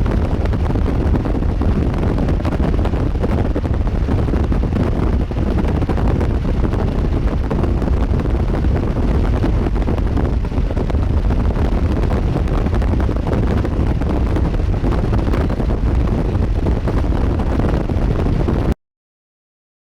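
Wind buffeting the microphone: a steady, loud, low rumble of noise that cuts off abruptly to silence near the end.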